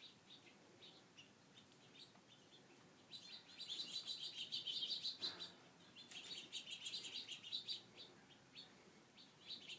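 Small birds chirping in quick, high-pitched runs: scattered chirps at first, then busy bursts of chatter starting about three seconds in and again after six seconds.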